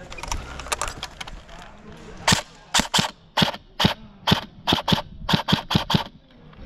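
Airsoft gun firing single shots: about a dozen sharp, loud cracks in quick, uneven succession over some four seconds, after a few fainter shots in the first second or so.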